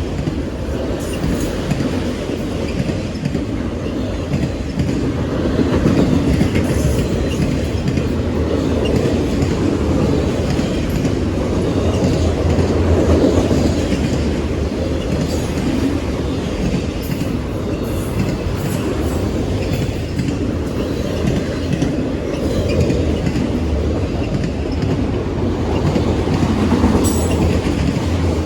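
CSX autorack freight train rolling past: a steady rumble of wheels on rail, with scattered clicks as the cars pass over the rail joints.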